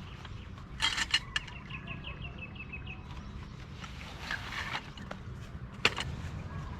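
Sharp clicks and knocks over a steady low rumble, with a short quick bird trill of about a dozen high notes about two seconds in.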